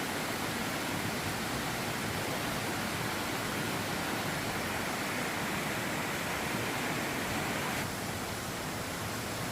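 Steady rushing noise with no distinct strokes or tones; about eight seconds in it changes abruptly and drops slightly in level.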